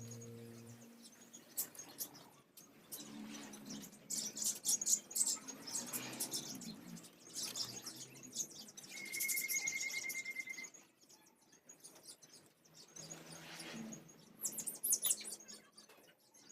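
Hanging parrot (serindit) giving many short, high-pitched chirps and squeaks, with a brief even trill just past the middle. A low ringing tone fades out in the first second.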